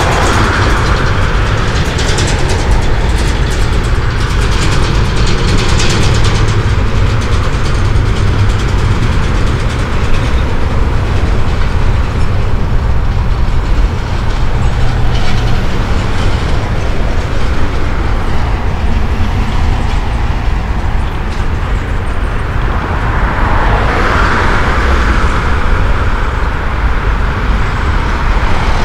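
CSX double-stack intermodal freight train rolling steadily across a railway bridge overhead. Road traffic passes beneath, with a car swelling past close by near the end.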